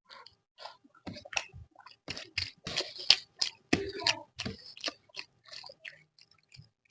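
Close-miked mouth sounds of a person chewing food: rapid, irregular clicks and smacks, busiest through the middle and thinning out near the end.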